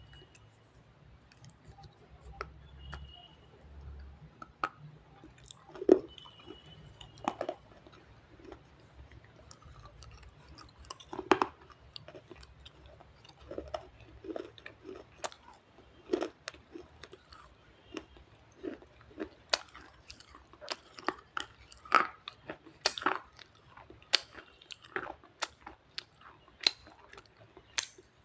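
Wet red shale being bitten and chewed: irregular crisp crunches and snaps, sparse at first and coming much faster in the second half.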